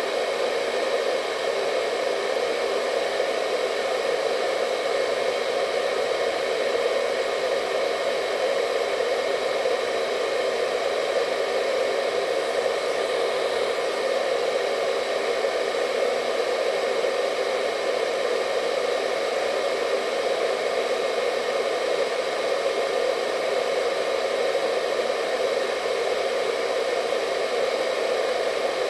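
Hair dryer running steadily: a continuous blowing hum with a faint whine above it, unchanging throughout.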